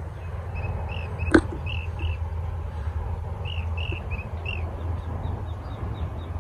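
A small bird chirping in short repeated notes, then a quick run of faint ticking calls near the end, over a steady low rumble. A single sharp click comes a little over a second in.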